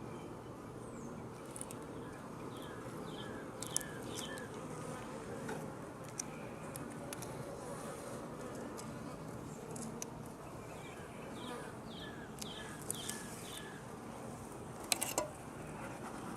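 Honey bees buzzing at an open hive: a steady droning hum, with a few sharp clicks, the loudest near the end.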